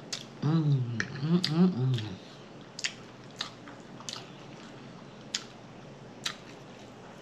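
Close-miked eating: a mouthful of greens and bread being chewed, with sharp wet lip smacks and mouth clicks every half second to a second. A short stretch of voice comes about half a second in.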